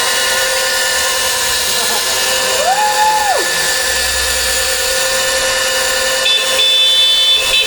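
Electric dirt bike's motor whining steadily through a burnout on the spot, its rear tyre spinning. The pitch jumps up for under a second near the middle as the throttle is opened further, then falls back.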